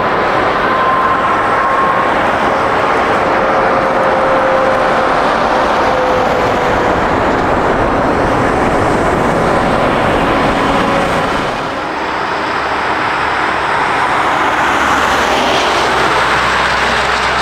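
Jet airliner engines running loud and steady, with a faint turbine whine that drifts down in pitch over the first several seconds. The noise dips briefly about twelve seconds in, then builds again.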